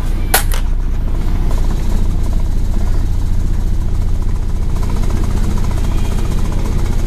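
Scania N113 bus's diesel engine running under way, a steady low drone throughout, with two sharp clicks about half a second in.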